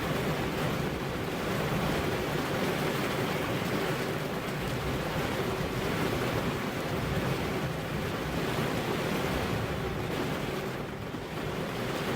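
Heavy rain falling steadily, an even rushing hiss with no distinct thunderclap.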